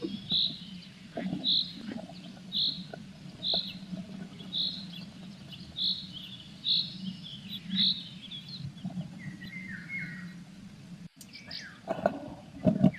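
A small songbird repeats one short high note about once a second for the first eight seconds or so, over scratching and tapping from the incubating blue tit shifting in the nest box and a low steady hum. Near the end the scratching and knocking gets louder.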